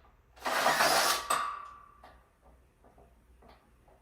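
A screw being driven into the metal bed-frame joint: one loud gritty burst of about a second, trailing off into a fading ring, then a few light clicks.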